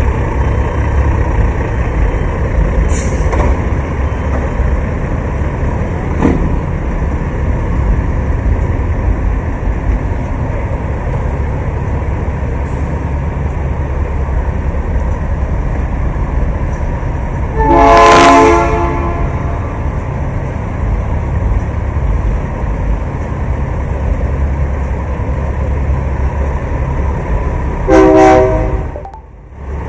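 A truck's air horn blasts twice, once about halfway in and once near the end, over a steady low engine rumble.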